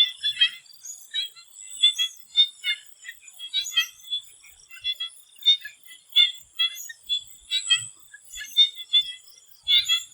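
Swamp frogs calling: a chorus of short croaks, several a second and overlapping, over a steady high-pitched drone.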